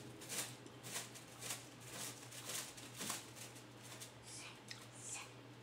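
Close-miked eating sounds: a person chewing a mouthful of rice and fried food, a run of short, soft mouth clicks and smacks about two to three a second. Near the end there is a light crinkle, fitting the handling of a plastic water bottle.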